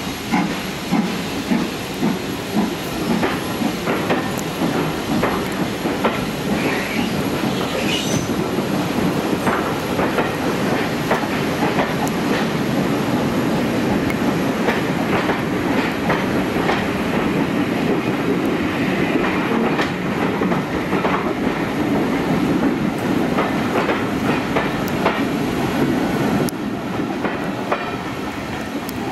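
Passenger coaches of a steam-hauled train rolling past close by, wheels clicking over the rail joints over a steady rumble; the locomotive's exhaust beats are heard at the start. The sound eases a little near the end as the last coach goes by.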